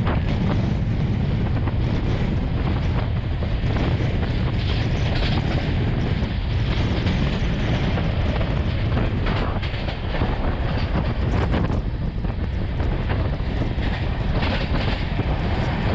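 Wind buffeting the microphone over the steady rumble of an express passenger train running at speed, heard from an open coach door, with wheels clattering over the track now and then.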